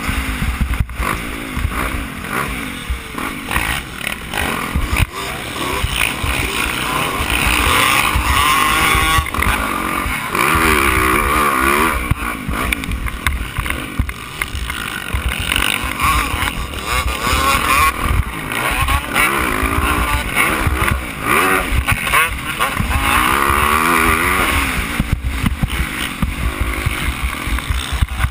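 Yamaha YZ450F motocross bike's engine heard onboard while racing, its revs rising and falling again and again as it accelerates and backs off, under heavy wind buffeting on the bike-mounted camera.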